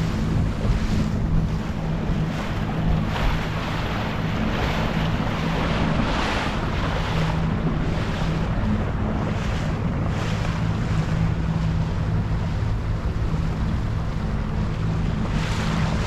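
Boat's engine running steadily under way, a continuous low hum, under rushing water and wind buffeting the microphone in repeated surges.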